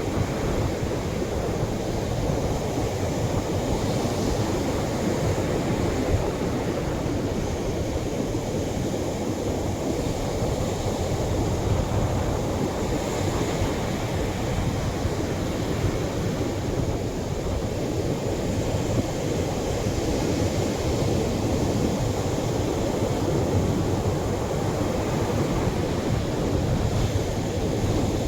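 Atlantic surf washing gently onto a beach: a steady rush of breaking waves, with a swell of brighter hiss every seven or eight seconds as each wave spreads up the sand.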